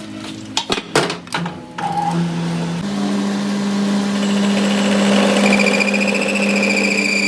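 A few sharp metal knocks, then a shop machine's electric motor starts and runs with a steady hum, and a high whine comes in about halfway through.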